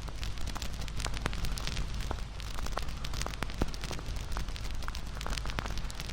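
Wood fire burning with frequent sharp, irregular crackles and pops over a steady low rumble of the flames.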